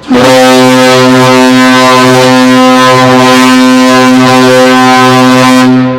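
Cruise ship Asuka II's horn sounding one long, deep, steady blast of about six seconds as the ship's departure signal, stopping near the end with a short echo.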